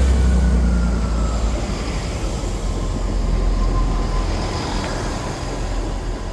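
GWR Class 166 diesel multiple unit passing along the platform: a loud, low rumble of engines and wheels that slowly fades, with a faint whine falling gently in pitch.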